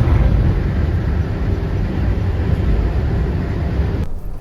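Steady low rumble of vehicle noise, loud and dense, that cuts off abruptly about four seconds in, leaving a much quieter background.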